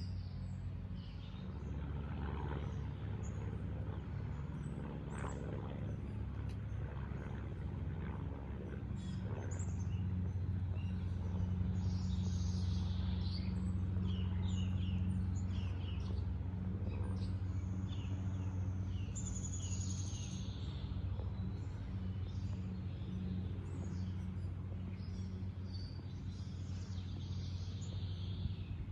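Birds chirping and calling in short scattered notes over a steady low hum.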